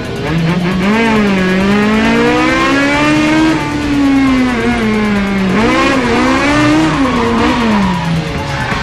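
Naturally aspirated Toyota Corolla KE72's engine revving hard while driven through corners, its pitch climbing for the first few seconds, dropping back, then rising and falling quickly twice more.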